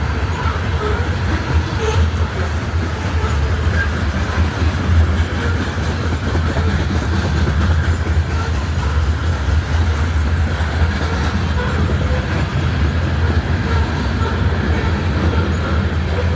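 CSX grain train rolling past, a steady, loud rumble of steel wheels on the rails that holds without a break.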